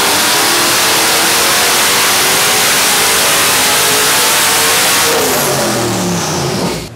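Twin-turbocharged 6.2-litre Chevrolet LS V8 with 60 mm turbos, run at high revs on an engine dyno, loud with heavy exhaust and turbo hiss. About five seconds in the revs fall away and a high whine drops in pitch as the turbos spool down, then the sound dies away near the end.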